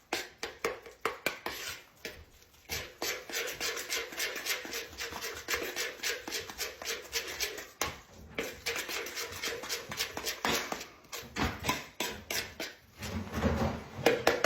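A utensil stirring a thick, wet mix of mashed potato, chili and cheese in a bowl: quick scraping strokes against the bowl, stopping briefly a few times.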